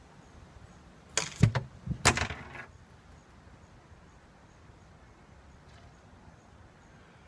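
A 5-foot blowgun fires with a sharp puff of breath. Just under a second later a Red Cracker Snap target pops with a sharp crack and a short ringing tail, hit by the dart.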